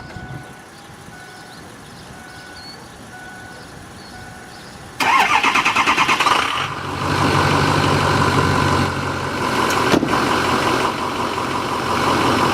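A short beep repeats at even spacing. About five seconds in, the Ford F-250's Power Stroke diesel engine is cranked by the starter, catches after about a second and a half, and settles into a steady idle.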